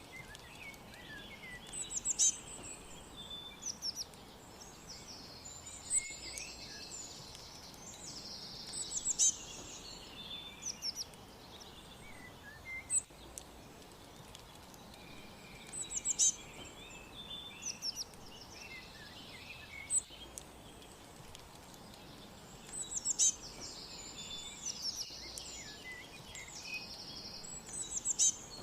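Songbirds chirping and calling: sharp high chirps and short buzzy trills come in bursts every three to four seconds, over a steady background hiss.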